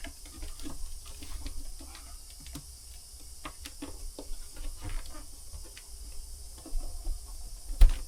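Scattered light taps and clicks of a grooved MDF trim piece being handled and worked into place, with one sharp knock near the end.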